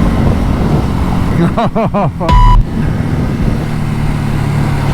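Ducati Hypermotard's L-twin engine running under way, mixed with road and wind noise. A short, loud electronic beep sounds about halfway through.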